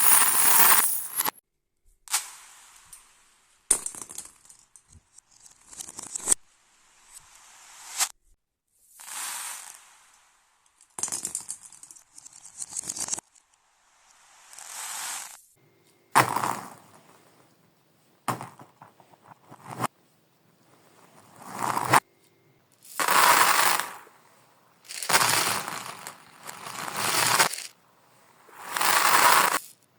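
Marbles rolling and clattering along a marble run track, played in reverse: a series of short clips, each swelling up and then cutting off abruptly, with brief silences between them.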